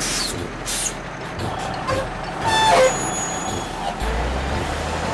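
Cartoon truck sound effects: a steady engine rumble, with a brief louder pitched squeal and hiss like an air brake about two and a half seconds in.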